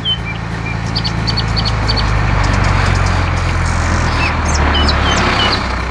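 A motor vehicle engine runs steadily with a low hum, and short, high bird chirps sound over it.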